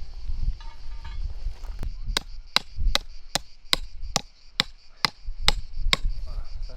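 A rapid series of about a dozen sharp, evenly spaced knocks, roughly two and a half a second, that starts about two seconds in and stops near the end. It is like a tool striking wood.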